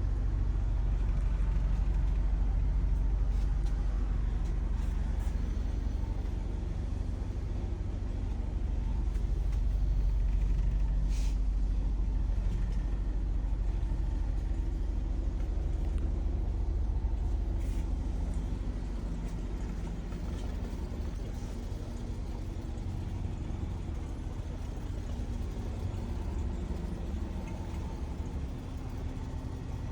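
An engine running steadily, a low rumble with a constant hum, and a couple of faint short ticks around the middle.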